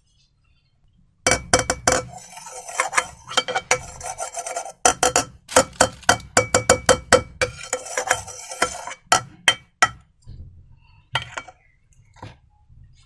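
A utensil stirring and scraping slime in a bowl, with quick sticky clicks and clinks against the bowl's sides; the stirring stops about ten seconds in, leaving a few faint clicks.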